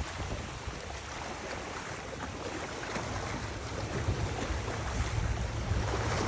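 Wind buffeting the microphone outdoors, a low rumbling that grows stronger about halfway through, over a steady rushing hiss.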